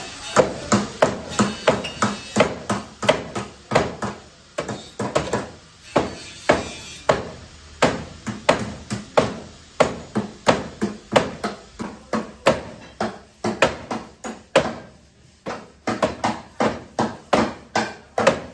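A hammer beating on car body sheet metal, a steady run of sharp, ringing blows about three a second, with a short pause about fifteen seconds in.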